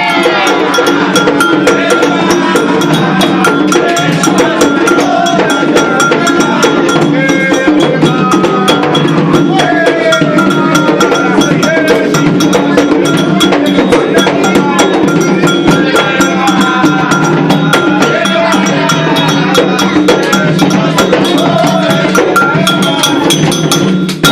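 Ceremonial Afro-Brazilian drumming on atabaque hand drums with a steady, fast bell pattern from an agogô, and voices singing over it.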